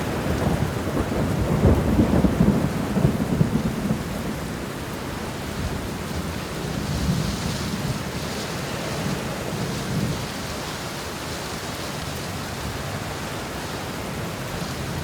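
Steady rain with rolling thunder; the heaviest rumble comes in the first few seconds, with weaker rumbles later.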